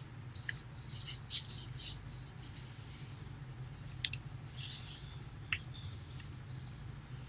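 A sheet of paper being handled and folded: uneven rustling and crinkling with a few sharp clicks, over a steady low hum.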